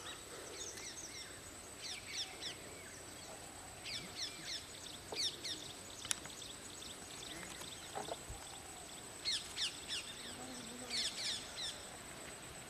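Wild birds singing in repeated bursts of quick, falling chirps, about half a dozen times, over a steady thin high-pitched tone and low outdoor background.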